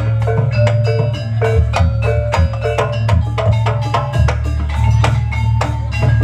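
Live jaranan (kuda lumping) accompaniment music. Fast, steady strikes of drums and pitched metal mallet percussion play over a continuous low tone.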